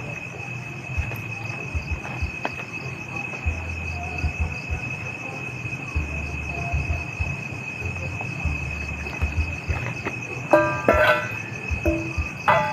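Crickets chirring steadily in a forest at night, a constant high-pitched trill, with intermittent low rumble. Near the end come a few short knocks with brief ringing.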